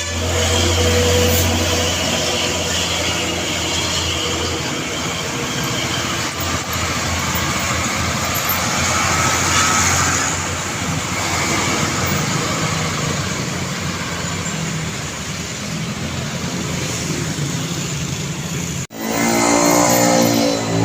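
Road traffic: heavy trucks and cars passing with steady engine and tyre noise. It breaks off abruptly near the end, and a pitched sound with several tones follows.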